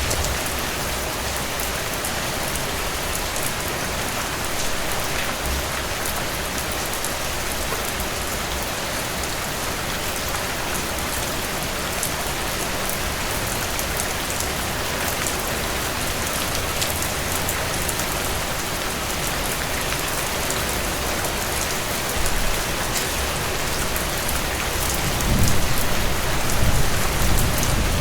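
Heavy rain falling steadily and pattering on a cabin porch, an even hiss with fine drop ticks. A low rumble swells near the end.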